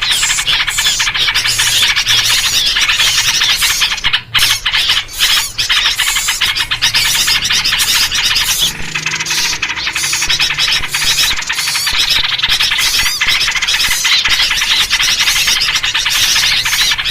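Dense, continuous, noisy chattering of many small birds, an agitated chorus with yellow-vented bulbul calls in it, of the kind played as a lure to draw birds in. It dips briefly a few seconds in.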